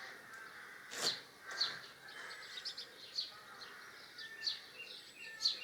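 Small birds chirping repeatedly, short high chirps over faint background noise, with a single sharp knock about a second in.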